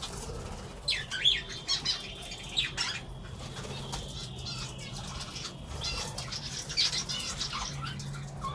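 Colony of caged budgies and finches: scattered short chirps and brief wing flutters, over a steady low hum.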